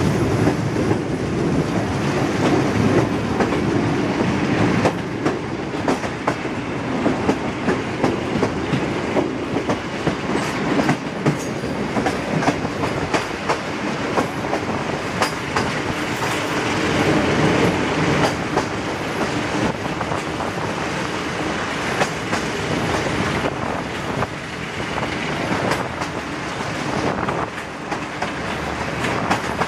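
Passenger train running along the track, heard from a coach: a steady rumble with the wheels clicking and clattering irregularly over rail joints.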